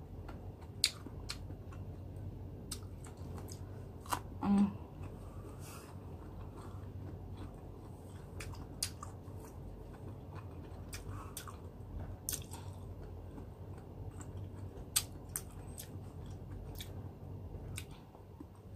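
Mouth chewing and biting slices of unripe green mango, with scattered crisp crunching clicks. A brief pitched sound stands out about four and a half seconds in.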